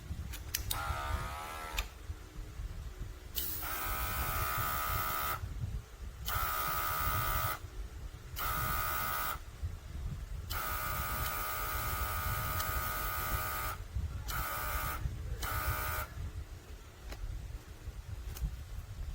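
Small cordless airbrush compressor running in repeated bursts, a steady motor whine with air hiss that starts and stops seven times, the first run rising in pitch as it spins up. The longest run lasts about three seconds.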